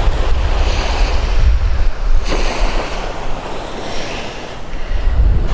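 Wind buffeting the microphone in gusts over the rush of sea water.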